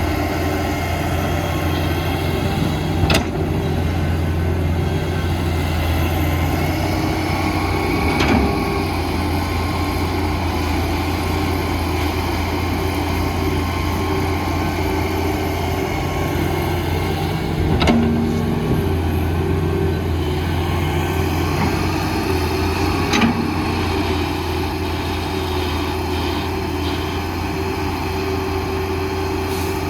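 Heavy diesel engine of construction machinery running steadily, with four sharp knocks spread through it, the kind of clank a digging bucket makes against rock or a truck body.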